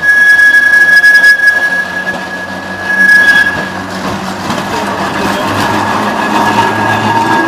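Tram running past on its rails, with a steady high squeal from its wheels, loudest in the first half, and the rumble of the running gear swelling toward the end.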